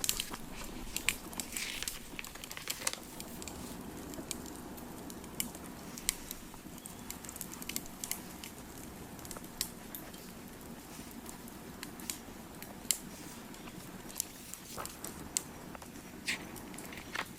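Crackling fire: a steady low rush with irregular sharp pops and snaps.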